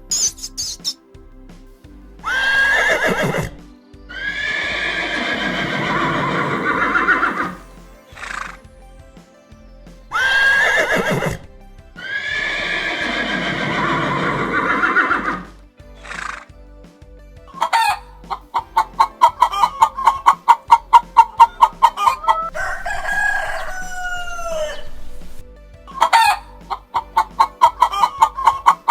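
A rooster crowing twice, each crow a short lead-in note followed by a long drawn-out call. After that come rapid runs of chicken clucking, with a few squawking calls between them.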